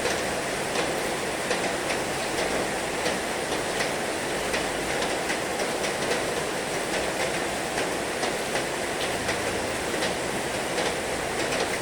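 Heavy rain falling steadily, with sharp drop hits a few times a second at irregular intervals.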